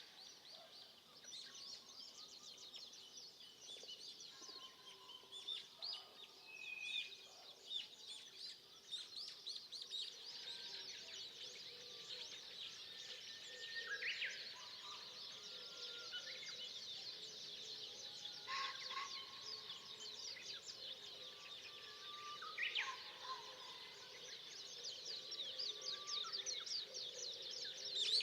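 Forest birdsong: a dense chorus of high, rapid chirping, with one bird's louder call, a held note ending in a sharp upward sweep, repeated every four to eight seconds.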